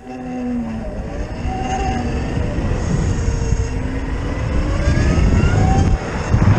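Zero FX electric motorcycle pulling away and accelerating: the electric motor's whine glides up in pitch over rushing wind and road noise, growing louder.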